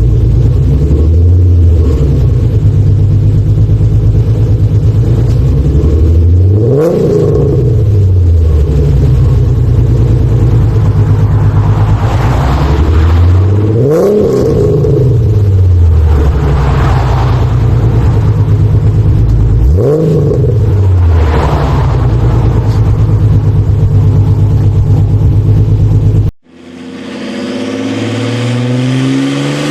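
Ford Mustang 4.0 V6 idling through its exhaust, revved three times about seven seconds apart, each rev climbing sharply and dropping back to idle. Near the end the sound cuts abruptly to another engine accelerating, its pitch rising steadily.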